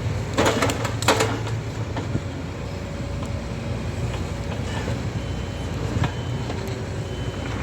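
Heavy construction machine running steadily with a low diesel hum, with a quick cluster of clanks and knocks about half a second in as it breaks up material, and a few fainter knocks later.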